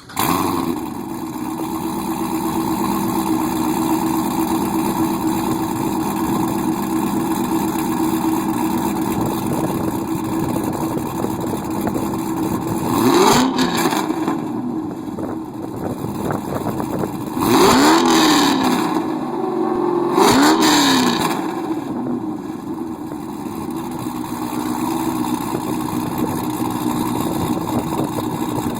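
2004 Pontiac GTO's LS1 V8, with a 224 Vengeance cam, Pacesetter long-tube headers and a Corsa cat-back exhaust, starting up and idling. It is revved three times: a short blip about halfway through, then two more a couple of seconds apart, each rising and falling back to idle.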